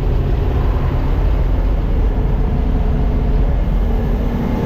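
Farm machine's engine running steadily with the throttle opened up, a deep continuous rumble; a steady pitch comes up near the end.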